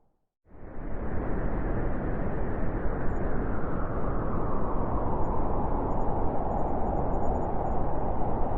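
Strong wind blowing in a snowstorm: a steady rushing noise that fades in after a moment of silence at the start, its higher part growing stronger toward the end.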